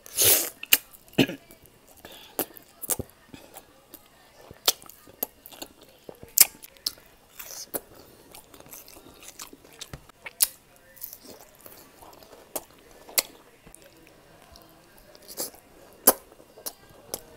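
A person chewing pork liver steak with onion rings, with wet lip smacks and mouth clicks coming irregularly, sometimes a couple a second.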